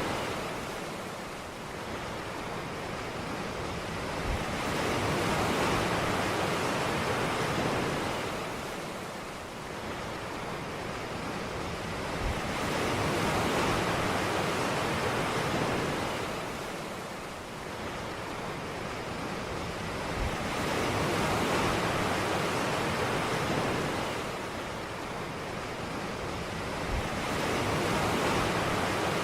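Ocean surf on a beach: waves wash in and draw back in a steady cycle, the rushing swelling and fading about every eight seconds.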